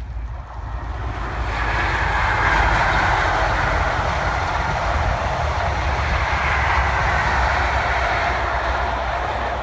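A CrossCountry High Speed Train, a Class 43 power car leading Mark 3 coaches, passing close by at speed. Its wheels on the rail and its running gear make a steady rush and rumble that builds over the first two seconds and then holds.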